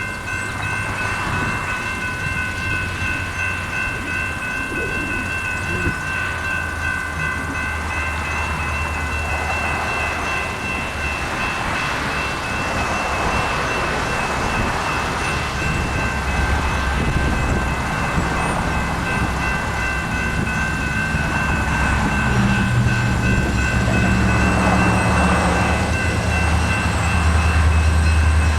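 Four General Signals electronic crossing bells ringing steadily at an active grade crossing. In the second half the low rumble of an approaching diesel locomotive builds and grows louder.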